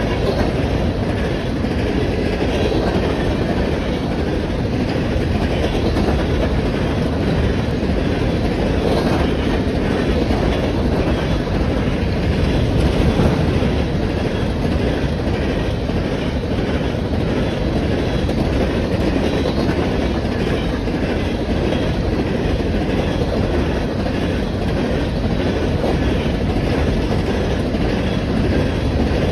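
Empty steel coal gondolas of a freight train rolling steadily past close by: a continuous rumble of wheels on rail with repeated clacks as the wheels cross rail joints.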